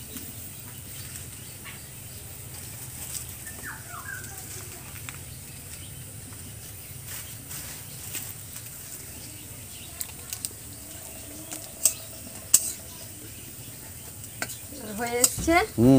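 Pumpkin flower fritters frying in oil in an iron karai over a wood-fired clay stove: a low, steady sizzle, with a few sharp clicks between about ten and thirteen seconds in. A woman's voice starts near the end.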